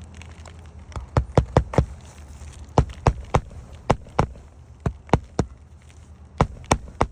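Hammer blows on roofing nails in asphalt shingles: about fifteen sharp strikes in quick runs of two to five.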